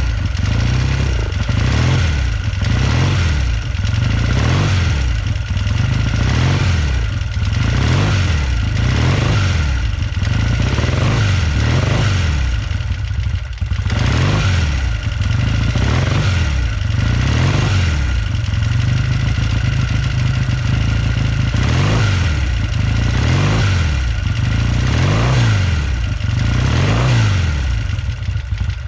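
1967 Triumph Daytona T100R's 500cc parallel-twin engine running just after a cold start, its revs rising and falling over and over about once every second or so as the throttle is worked. It is running cold-blooded, with both cylinders slow to settle into an even idle.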